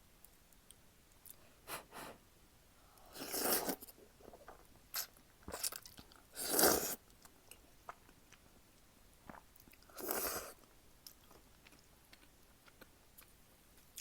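Close-miked eating of jjapaguri instant noodles: several short slurps of noodles, the loudest about halfway through, with chewing and small wet mouth clicks between them.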